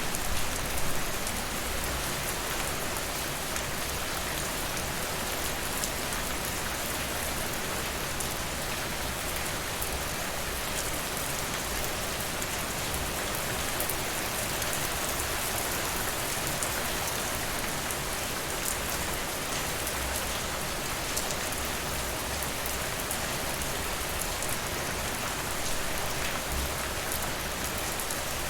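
Steady rain: a dense, even hiss of falling rain with scattered sharp ticks of drops.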